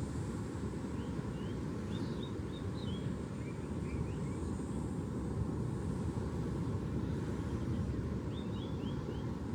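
Steady low rumble with small birds chirping in two short runs, the first about a second in and the second near the end.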